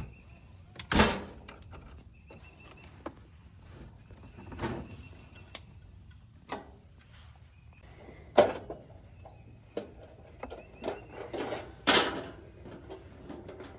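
Scattered knocks, clicks and clatters of camp cooking gear being handled, with a few louder clunks about a second in, around eight seconds and near twelve seconds.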